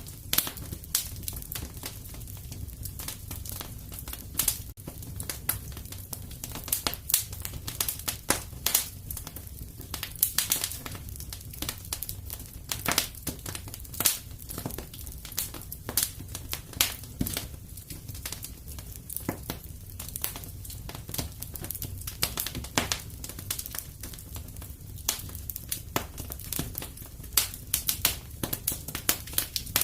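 Fire in a fireplace crackling, with irregular sharp pops and snaps over a low, steady rumble.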